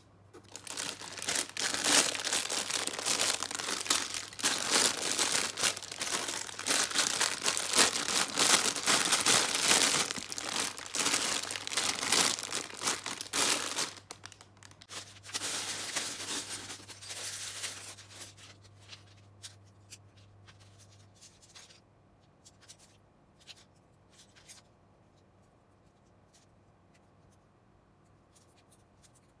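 Thin plastic LEGO parts bags being torn open and crinkled by hand, a dense crackling for about the first fourteen seconds that tails off by about eighteen seconds. After that come scattered light clicks, typical of plastic pieces being handled.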